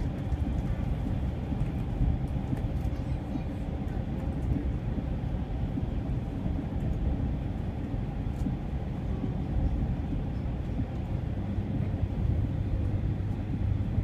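Steady low rumble of a high-speed train, heard inside the passenger car while it runs along the line.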